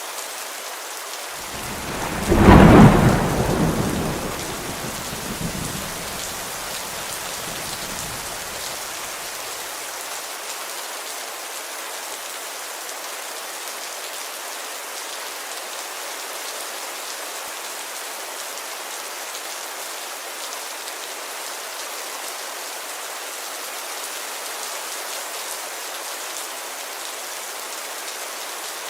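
Steady heavy rain pattering on a window. About two seconds in a clap of thunder breaks loud and rumbles away over the next several seconds.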